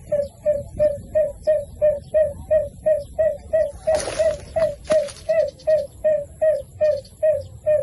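A bird calling a rapid, even series of short, slightly falling notes, about three a second, with two brief noisy rustles about four and five seconds in.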